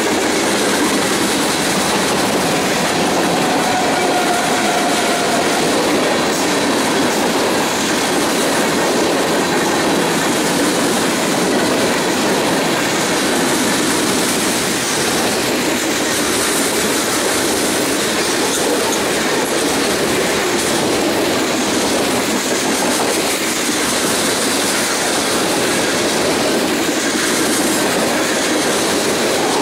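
Covered hopper cars of a freight train rolling past at close range: a steady rumble and rattle of steel wheels on the rails and car bodies clanking, with no letup.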